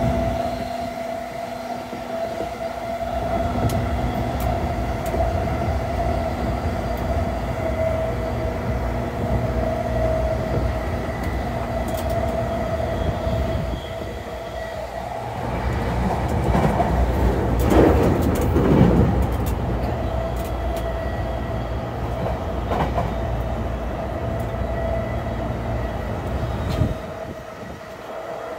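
JR East E233 series 0 commuter train running at speed, heard from inside the car: a steady rumble of wheels on rail with a steady whine over it. About halfway through a louder rush of noise swells and fades, and near the end the low rumble drops away suddenly.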